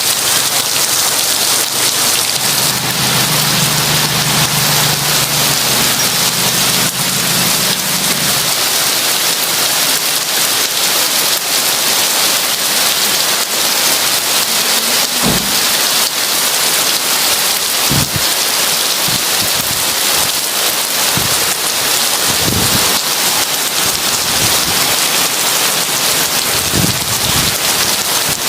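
Heavy rain falling steadily, with a low rumble of thunder a few seconds in. Several dull low thuds follow in the second half.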